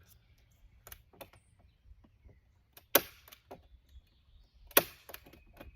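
Staple gun firing twice, a sharp snap about three seconds in and another near the end, fixing greenhouse plastic sheeting to the wooden frame, with fainter clicks and taps in between.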